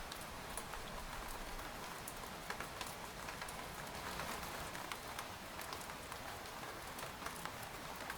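Steady rain pattering on a tent, a constant hiss of rainfall with many scattered individual drops ticking sharply on the fabric.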